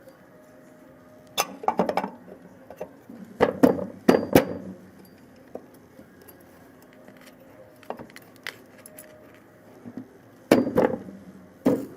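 Small metal parts and tools clinking and knocking against each other and a hard surface, as the parts of an old hand planer are handled. The sharp clinks come in short clusters: about a second and a half in, around four seconds in, and again near the end.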